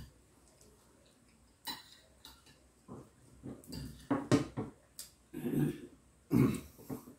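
Close-up eating sounds: a person chewing and smacking a mouthful of rice and vegetables, with a few light clicks of a spoon on the dish. It is quiet at first, and the loudest chewing comes in the second half.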